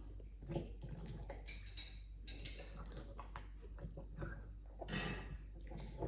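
Quiet eating at a table: scattered light clicks and taps of cutlery on dishes with soft chewing, and a brief louder scrape about five seconds in.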